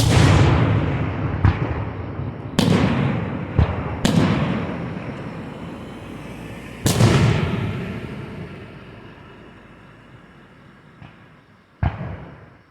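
Fireworks shells bursting close by: about seven sharp bangs, each followed by a long echoing rumble that dies away over several seconds. The biggest comes about seven seconds in and a last, smaller one near the end.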